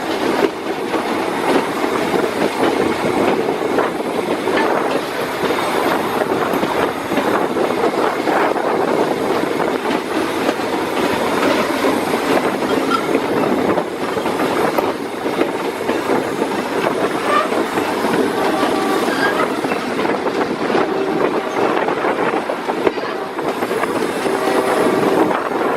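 A passenger train's carriage riding along the rails, heard from aboard: a steady rumble and rattle of wheels on track, with a few short, faint squeals in the second half.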